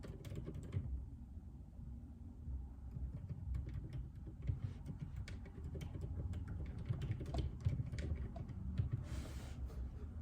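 Typing on a JJK84 mechanical keyboard with Outemu Silent Peach linear switches: irregular, muted keystrokes. A brief rustling hiss comes about nine seconds in.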